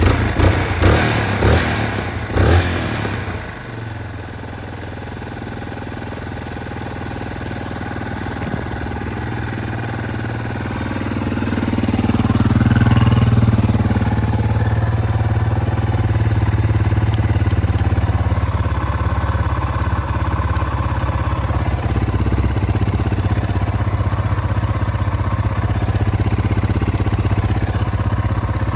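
Yamaha Serow 225's single-cylinder four-stroke engine firing with a few uneven bursts in the first three seconds, then settling into a steady idle that slowly grows louder, with a brief swell about halfway through.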